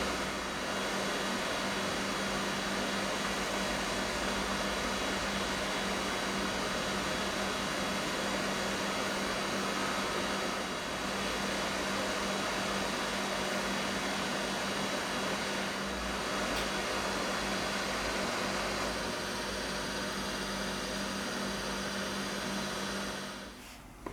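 Hot air rework station blowing steadily, a hiss with a steady low hum under it, heating the touch screen controller chip on an iPhone 6 Plus logic board. The airflow cuts off near the end.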